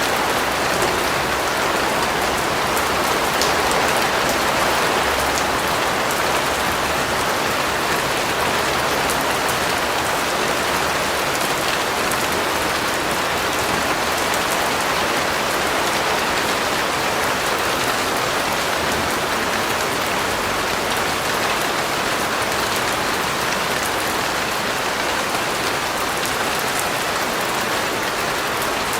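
Steady rain falling, an even hiss of drops striking a surface with no let-up.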